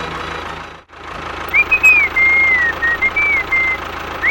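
A vehicle engine running steadily with a low, even knock, dropping out briefly just under a second in, then over it a string of gliding whistled notes that rise and fall from about a second and a half in.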